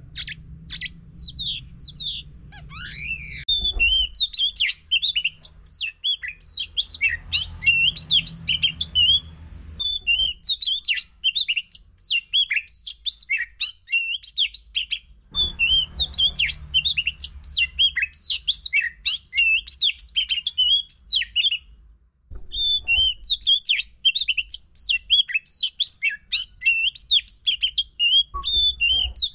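Oriental magpie-robin (kacer) singing a fast, unbroken run of varied chirps and whistles, breaking off briefly about three quarters of the way through. A low rumble comes and goes underneath.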